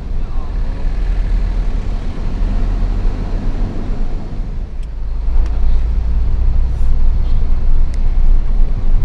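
Hino FL 260 JT truck's diesel engine running under a heavy coal load, a steady low rumble with road noise that grows a little louder in the second half. A few short sharp ticks come in over the second half.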